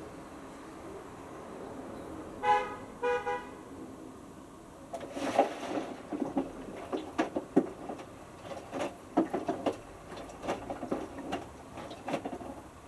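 Hotpoint Futura washing machine giving two short electronic beeps, then a run of irregular clicks and knocks from the machine as the wash program starts.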